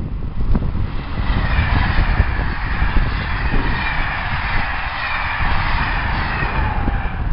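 A train passing, with a rushing noise and a slowly falling whine that build up about a second in and fade just before the end, over heavy low rumble.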